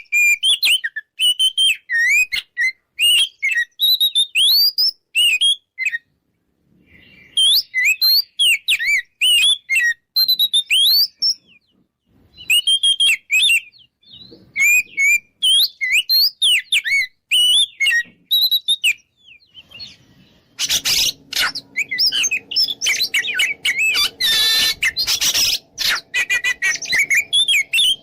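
Oriental magpie-robin singing a fast, varied run of whistled and warbled phrases in bursts with short pauses. In the last seven seconds the song turns into harsher, raspy notes over a low steady hum.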